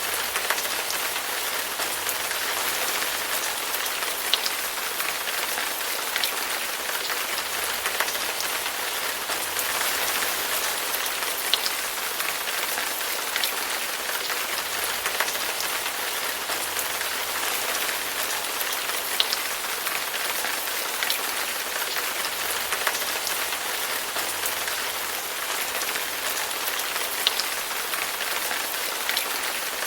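Steady rain falling on a surface, an even hiss with occasional louder individual drops ticking through it.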